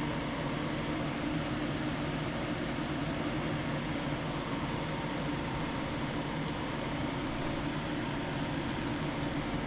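Steady mechanical hum with a hiss over it, like a running fan, with a couple of faint ticks.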